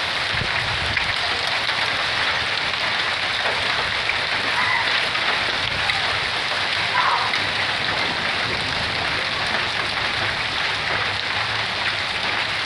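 Hailstorm of pea- and marble-sized hail mixed with rain: a dense, steady rush of countless small impacts on the roof and ground.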